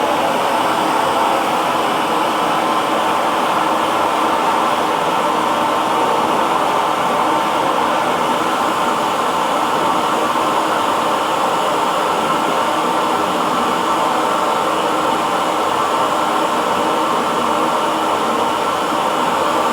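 Hair dryer running steadily on one setting: an even whooshing of blown air over the motor's faint steady hum.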